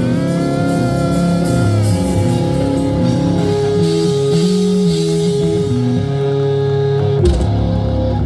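Live rock band playing: electric guitar with notes bending in pitch over bass and drums, with a sharp drum hit about seven seconds in.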